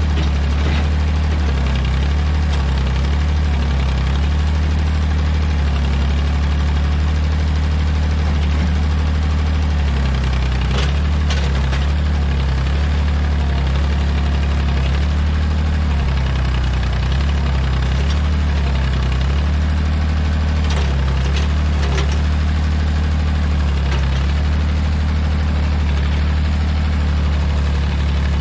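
Old Massey Ferguson backhoe's diesel engine running steadily at a low, even pitch, with a few brief knocks about eleven and twenty-one seconds in.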